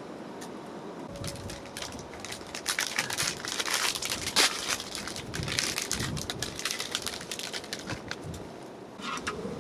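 Crinkling and crackling of plastic food packaging being handled and opened, building up after about a second, densest in the middle, then fading, with a short burst near the end.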